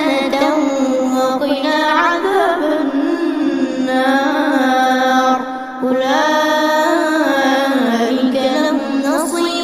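Melodic Quran recitation by a single high-pitched voice, with long held, ornamented notes that glide up and down and a short breath about halfway.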